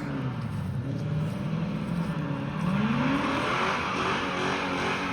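Car engine revving hard, its pitch dipping and then climbing again about two and a half seconds in, joined by a louder hiss that grows from about three seconds in.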